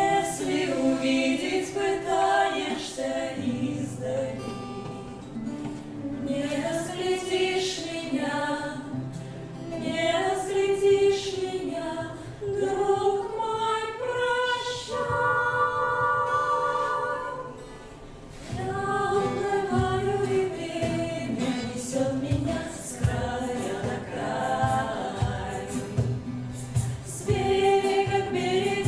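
Live singing by a small group of voices together, women's voices among them, phrase after phrase with a brief break about two-thirds of the way through.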